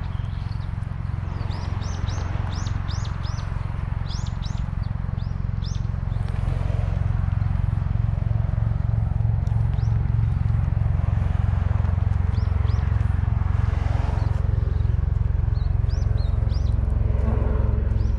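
Small birds chirping in quick runs of short, high, down-slurred notes, thickest in the first few seconds and again after the middle, over a steady low machine hum.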